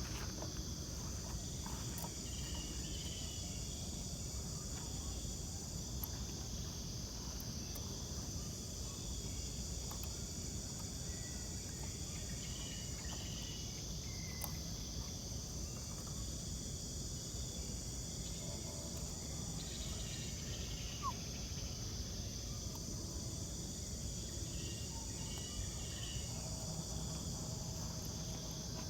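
Steady chorus of insects, crickets or cicadas, making a continuous high-pitched chirring, over a low outdoor rumble.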